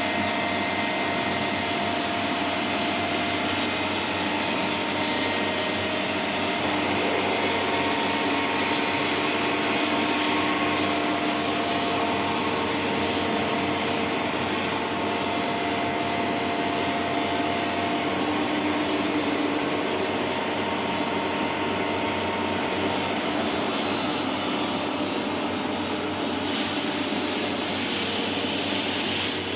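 Electric fan running with a steady whooshing whir, with faint motor tones under it. About 26 seconds in, the hiss turns brighter.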